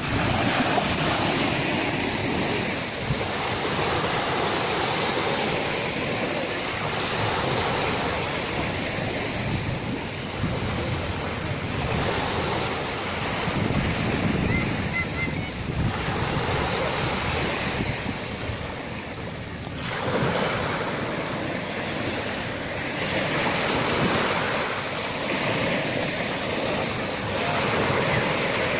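Sea waves breaking and washing ashore: a continuous rush of surf that swells and eases every few seconds, with a short lull about two-thirds of the way through.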